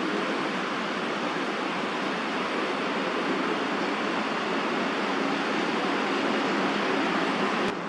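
Steady rushing background noise of distant city traffic, without change. It ends with a brief click near the end, after which the noise is slightly quieter.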